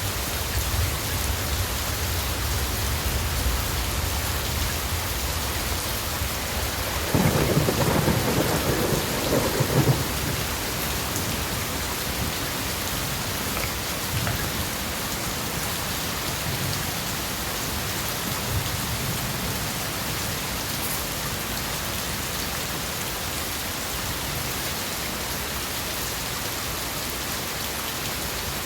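Steady rain falling, with thunder rumbling low in the first few seconds and a louder peal of thunder about seven seconds in that lasts around three seconds.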